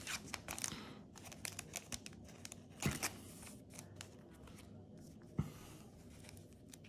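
Crinkling and tearing of a foil Yu-Gi-Oh booster-pack wrapper while cards are handled, with a couple of soft knocks against the table.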